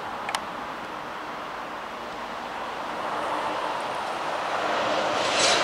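Coal train's hopper cars rolling away on the rails, a steady noise of wheels on track, with one sharp click about a third of a second in. The noise grows louder toward the end.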